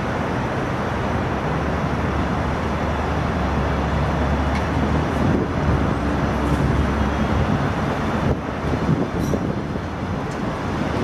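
Passenger coaches of a departing train rolling past: a steady rumble of wheels on the rails over a low hum, with a few faint ticks.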